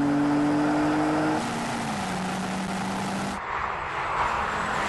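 High-performance BMW engines at full throttle during a drag race. The engine note holds steady, then drops in pitch about one and a half seconds in, like an upshift, and carries on under hard acceleration.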